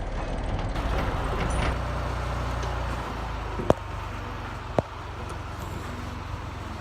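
A vehicle engine running steadily with a low rumble that eases slightly partway through, with two sharp clicks in the middle.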